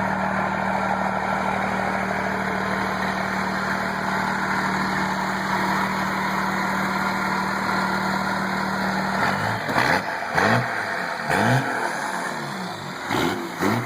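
1990 Dodge truck's 5.9-litre Cummins inline-six turbo diesel idling steadily, then revved in about five quick blips that rise and fall, starting about nine seconds in.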